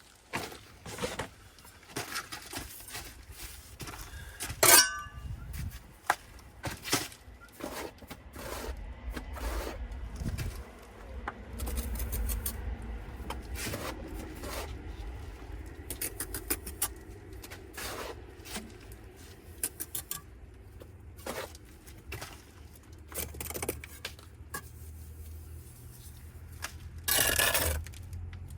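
Scattered clicks, knocks and scrapes of hands-on work at a cavity wall, most likely insulation being fitted into the gap left by the cut-out bricks. A low rumble underlies the middle and the last few seconds.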